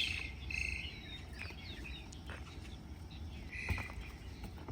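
A few short, high chirps, like bird calls, about three of them, over a steady low rumble, with a few faint clicks.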